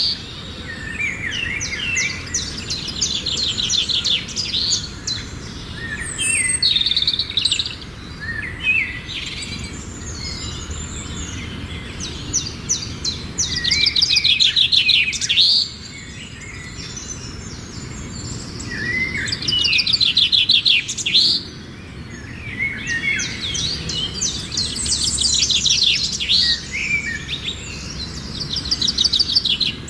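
Songbirds singing: repeated rapid trilled phrases with chirps between them, coming in bursts every few seconds, over a faint low background rumble.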